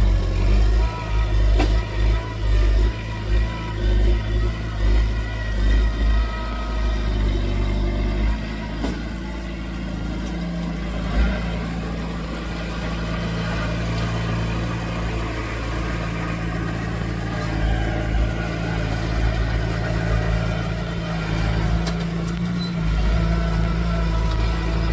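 Diesel engine of heavy earthmoving machinery running under load. Its low rumble pulses for the first eight seconds or so, then settles into a steadier drone.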